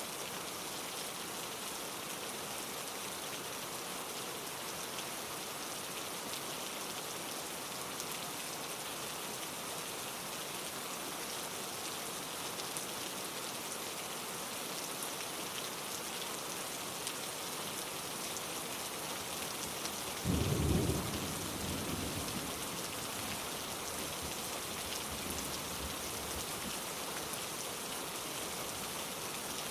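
Steady rain falling in an even hiss, with a sudden deep rumble about two-thirds of the way through that dies away over a few seconds.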